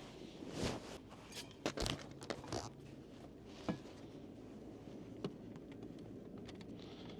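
Scattered knocks, clicks and rustling of gear being handled, thickest in the first few seconds, with two sharper single clicks later on.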